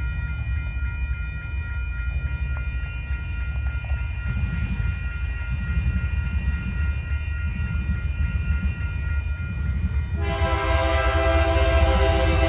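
Union Pacific freight locomotive's diesel engine and the train running with a steady low rumble. About ten seconds in, the locomotive's multi-chime air horn starts a loud, steady blast.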